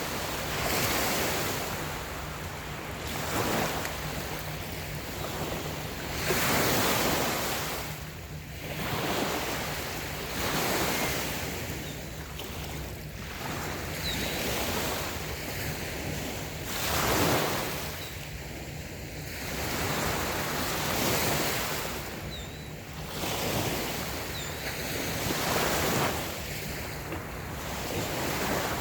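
Light waves breaking and washing onto a sandy beach, the surf swelling and fading every few seconds.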